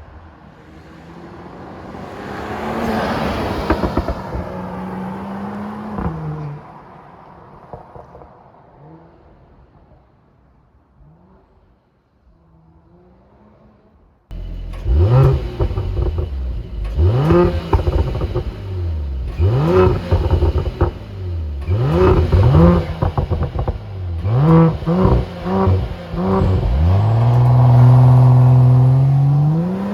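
Mercedes-AMG GLE 53's turbocharged 3.0-litre inline-six through its Performance Exhaust. First the car passes with a rising engine note and crackles, then fades away. About halfway through, a quick series of sharp rev blips starts, and near the end the engine holds steady at raised revs on launch control before the revs climb as the launch begins.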